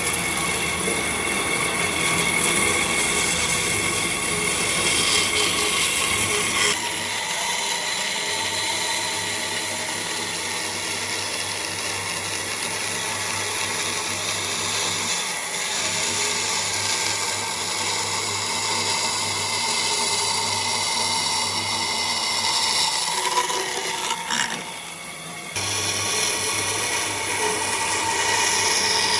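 A power tool running steadily while working wood: a high whine over a grinding hiss. The sound changes abruptly about seven seconds in and drops away briefly near the end.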